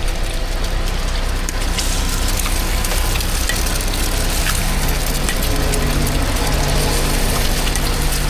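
Steady background noise at a street food stall: a low mechanical hum under an even hiss, with scattered small crackles and clicks.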